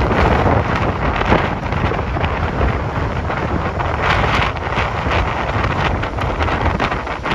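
Typhoon wind buffeting the microphone: a dense, gusty rushing noise that swells and eases.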